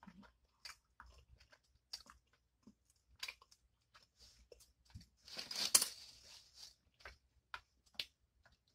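Close-miked mouth sounds of a person slurping and chewing ramen noodles: many small wet clicks and smacks. About five seconds in there is a louder rustle lasting about a second and a half, from a paper napkin being picked up.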